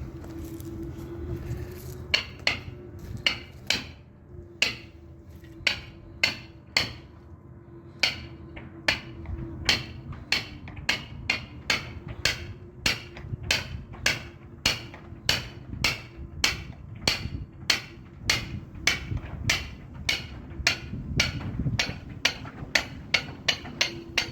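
Caulking mallet striking a caulking iron, driving caulking into the seams of a wooden boat's hull. Sharp strikes, a few irregular ones at first, then a steady beat of about two a second, over a steady low hum.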